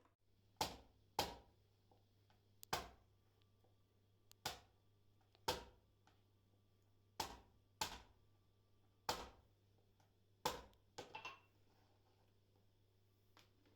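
A series of sharp knocks, about a dozen at irregular intervals, with three in quick succession near the end.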